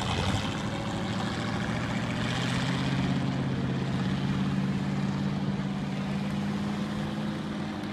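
A heavy vehicle's engine running steadily, a low, even hum with mechanical noise over it.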